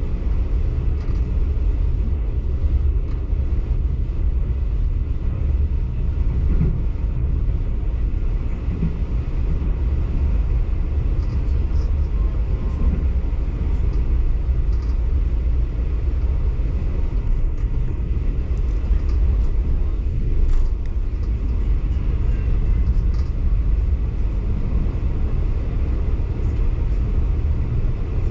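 Diesel-hauled passenger train running along the line, heard from aboard: a steady low rumble.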